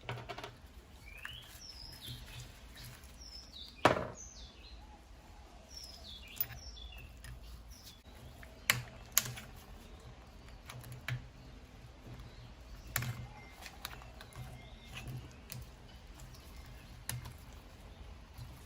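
Scattered sharp clicks and knocks of tools and parts being handled while working on a Bosch GBH 2-22E rotary hammer, the loudest about four seconds in. Small birds chirp in the background, over a low steady hum.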